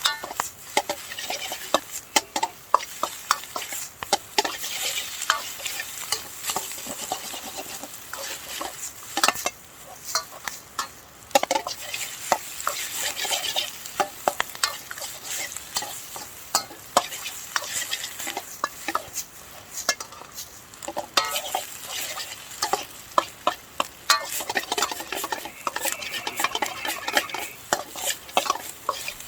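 Fried rice sizzling in a Chinese wok, with a cooking utensil clanking and scraping against the pan in quick, irregular strokes.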